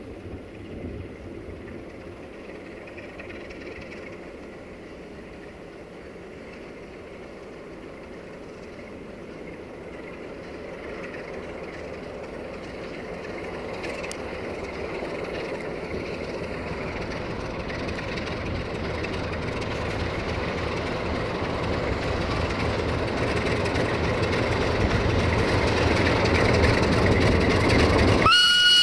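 Diesel train approaching and growing steadily louder as its engine and wheels near, then its horn sounds with a steady blast just at the end.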